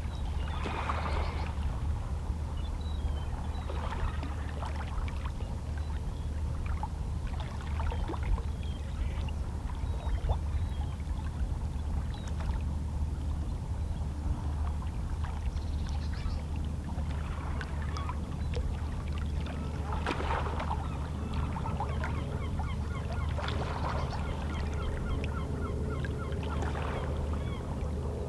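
Small, calm sea waves lapping and splashing against shoreline rocks, a soft wash every few seconds over a steady low rumble. Faint seabird calls come through now and then.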